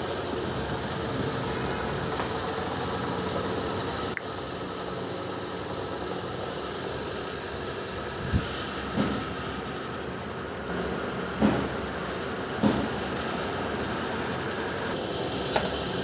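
A machine running steadily, with a few short knocks over it about four, eight, eleven and twelve seconds in.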